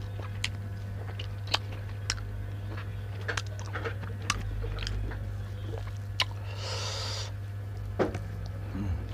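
Close-miked eating: chewing and biting with scattered sharp mouth clicks and smacks, a brief rustle about seven seconds in, over a steady low hum.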